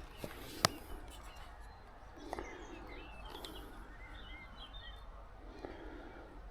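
Small birds chirping in the background, many short rising and falling notes. A sharp click about half a second in and a couple of faint knocks come from handling gear close by.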